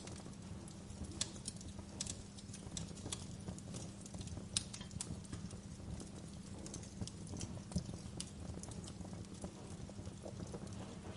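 Fireplace fire crackling: irregular sharp pops and snaps, some louder than others, over a steady low rumble of the burning fire.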